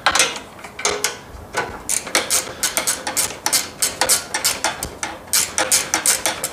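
Hand socket ratchet clicking in quick strokes as bolts are tightened, the clicks coming sparsely at first and then rapidly from about two seconds in.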